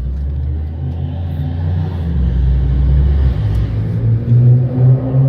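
Car engine and exhaust under way, the pitch climbing and the sound growing louder about three to four seconds in as it picks up revs.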